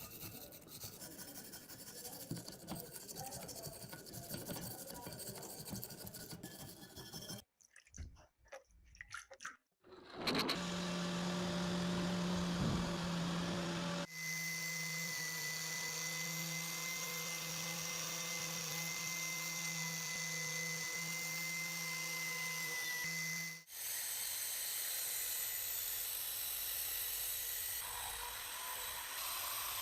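Scraping and rubbing for several seconds, then a short pause. After that a small power tool runs steadily in three spliced takes, with its pitch changing abruptly at each cut.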